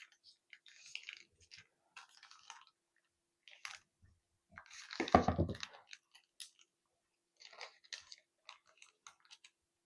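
Refrigerated pie crust being unwrapped: intermittent soft crinkling and rustling of its plastic wrapping, with one louder rustle about five seconds in.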